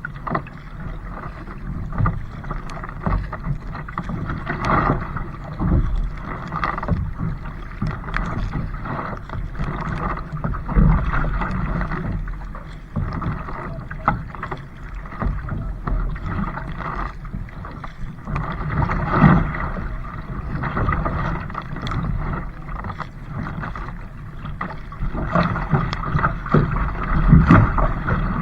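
Kayak on the water: paddle strokes and water splashing and sloshing around the hull, in irregular surges every second or two.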